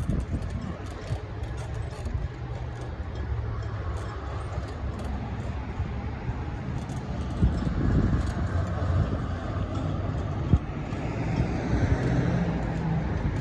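A car's engine running steadily, a low hum under road or traffic noise.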